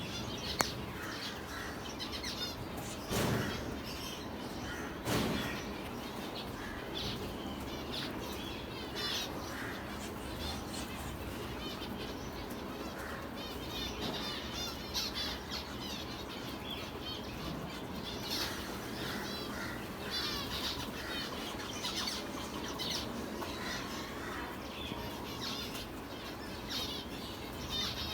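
Many small birds chirping in quick, high twitters throughout, over a steady low background noise. Two brief rushing noises come about three and five seconds in.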